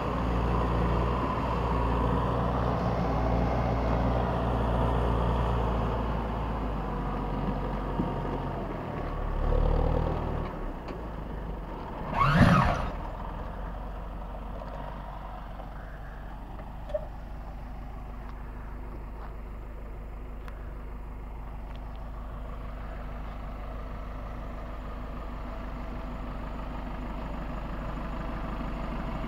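LKT 81 articulated forestry tractor's diesel engine running, louder for the first ten seconds, then settling to a quieter steady idle. About twelve seconds in there is one brief loud noise.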